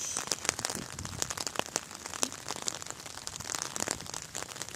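Rain falling, with many irregular drops ticking sharply close to the microphone.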